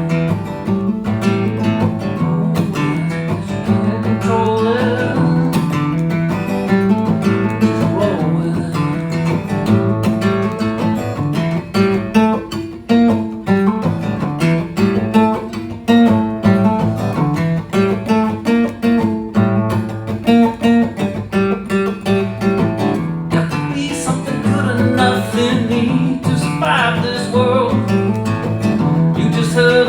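Acoustic guitar playing an instrumental passage of a song: strummed chords with a melody line moving over them.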